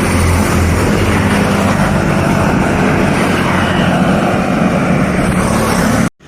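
Steady, loud motor-vehicle running noise with a low engine hum, mixed with rushing wind or road noise. It cuts off suddenly near the end.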